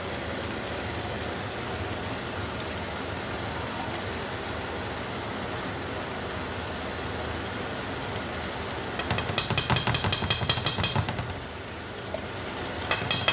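Chicken pieces frying in teriyaki sauce and garlic in a pan, sizzling steadily. From about nine seconds in, a utensil stirs and scrapes against the pan with rapid clatter for a couple of seconds, and again near the end.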